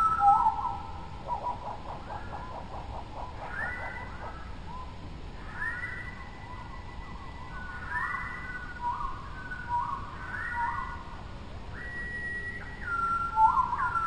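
Birdsong: clear whistled notes at a few pitches, repeated in short phrases, with a quick rattling trill a second or two in.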